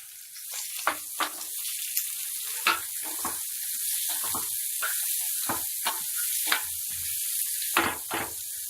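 Chopped big onions frying in hot oil in a kadai, a steady sizzle that builds just after they go in. Short scraping knocks come every half second to a second as they are stirred.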